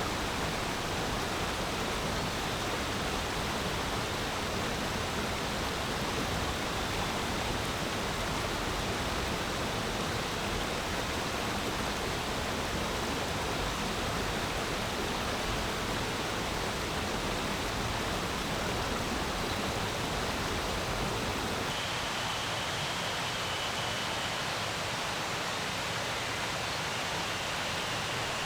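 Stream water flowing in a steady, even rush. About three-quarters of the way through, the deeper part of the sound drops away and the rush turns thinner.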